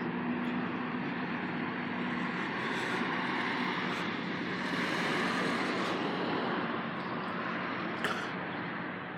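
Steady road-vehicle noise, swelling about five seconds in as a vehicle passes, with a low engine hum near the start.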